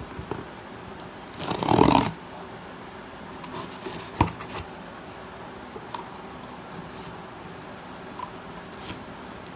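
Handling noises: a loud rustle or scrape about one and a half seconds in, then a sharp knock a little past four seconds and a few faint scattered clicks.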